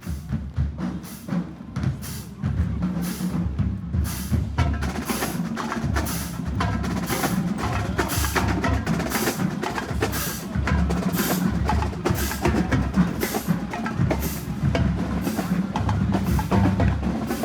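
Marching band drumline playing a cadence: snare and bass drums in a steady beat, with a sharp, bright hit about once a second. The drums grow louder over the first few seconds.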